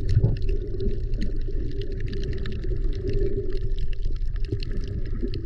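Water sloshing and gurgling, full of small crackles and splashes over a steady low rumble.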